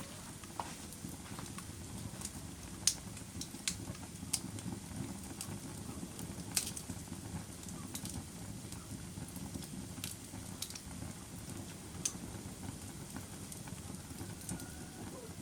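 Wood fire burning in a fireplace: a steady low rumble of flames with sharp crackles and pops scattered through it, the loudest about three, six and a half and twelve seconds in.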